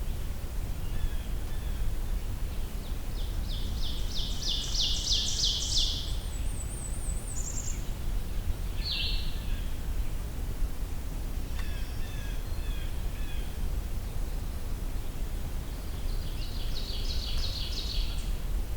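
Blackburnian warbler singing a variant song: a run of repeated high notes followed by a very high, thin twitter, heard twice, the second time near the end. A steady low background rumble runs underneath.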